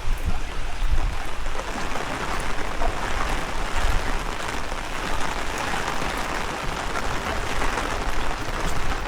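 Heavy rain falling steadily, with wind gusts rumbling on the microphone.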